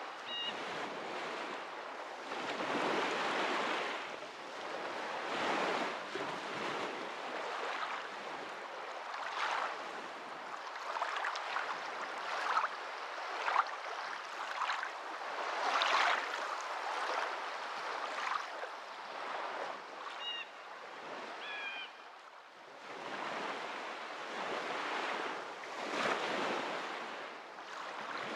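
Water washing in a continuous rush that swells and eases every two or three seconds. A few brief high chirps come near the start and again about two-thirds of the way through.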